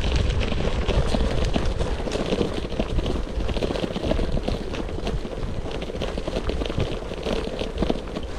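Gravel bike riding over a rough forest road: tyres crunching, with the bike rattling in many small knocks. Steady wind rumble sits on the microphone.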